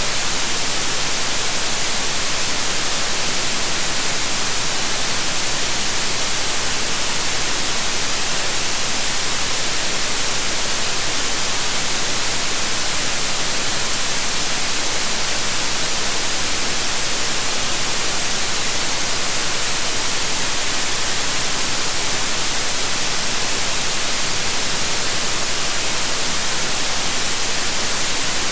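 Steady white noise: an even, unchanging hiss, brighter in the treble.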